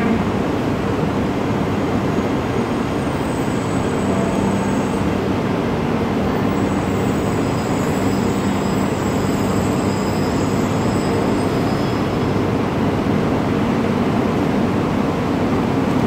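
Shinkansen train noise: a steady, continuous rumble with faint high whines coming and going in the middle.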